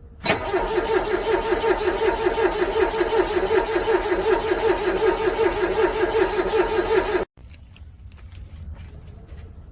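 Car engine being cranked by its starter in freezing cold, a loud, even, rapid chugging for about seven seconds without catching, then cutting off suddenly. It is a cold engine that won't start.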